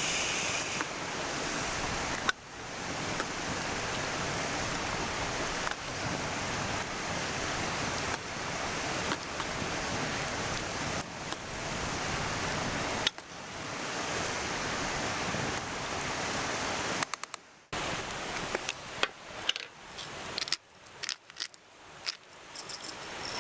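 Mountain stream rushing steadily. A few light clicks and taps, like dishes and utensils being set down, come in the last several seconds.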